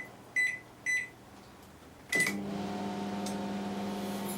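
LG IntelliWave microwave oven keypad beeping three times in quick succession, then a last beep about two seconds in as the oven starts. It then runs with a steady hum, its magnetron firing at full power with the magnetron fuse bypassed.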